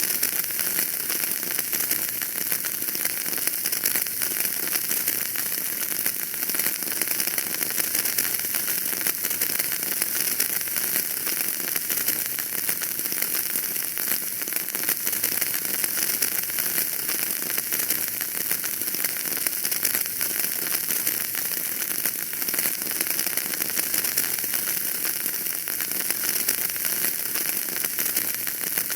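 Wood fire burning in a fireplace, crackling steadily: a dense run of small pops and snaps over a constant hiss, with no change in level.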